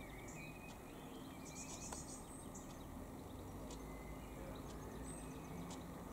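Faint background of small birds chirping now and then, with a faint steady hum underneath.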